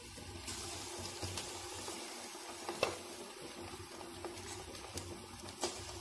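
Battered chicken pieces frying in hot oil, a steady sizzle. A couple of sharp clicks stand out, the loudest about three seconds in and another near the end.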